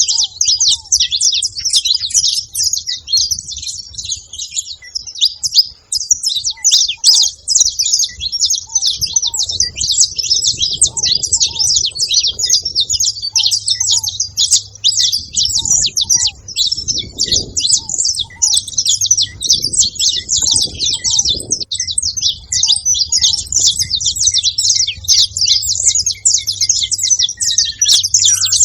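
Saffron finch singing: a rapid, unbroken stream of high, busy chirps.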